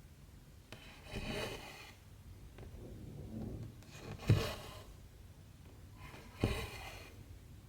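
Cotton embroidery thread drawn through 14-count cross-stitch fabric, stitch by stitch. Each stitch gives a short rasping swish with a little tap as the needle goes through. There are four of these, a second or two apart, and the one about halfway through is the loudest.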